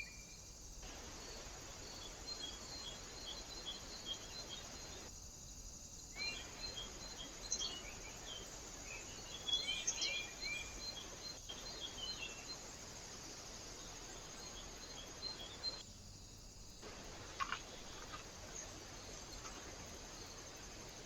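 Small birds chirping and calling in short scattered notes, busiest in the middle, over a steady high insect-like trill. The whole background cuts out briefly a few times, where one recording ends and the next begins.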